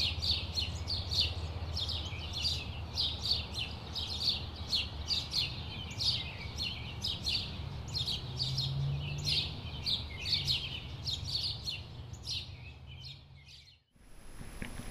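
Songbirds chirping continuously, with many short, quick notes several times a second over a steady low rumble. The birdsong cuts off abruptly near the end, replaced by a low rushing noise.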